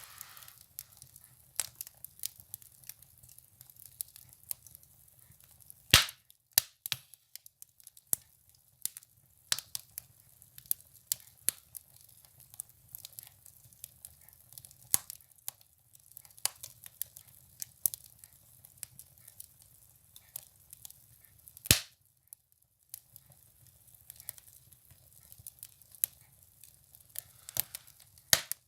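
Firewood burning in a wood stove, crackling with irregular sharp pops and snaps, two of them much louder than the rest, about six seconds in and near the end.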